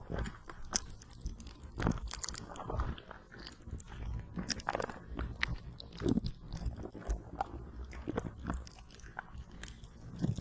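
Cooling gel patch being wrapped and handled close up on the microphone, giving irregular sticky crackles and crinkles.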